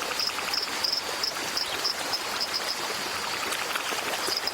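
Steady rush of stream water, with a high, short chirp repeated about three times a second that fades out past the middle and returns near the end.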